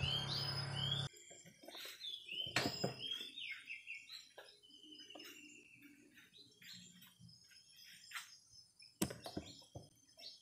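Small birds chirping and twittering in short, repeated calls. A steady low hum cuts off about a second in, and there are two sharp knocks, one near the start and one near the end.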